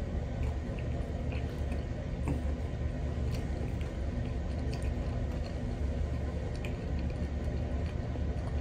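Close-miked chewing with the mouth closed: small wet smacks and clicks scattered through, over a steady low hum.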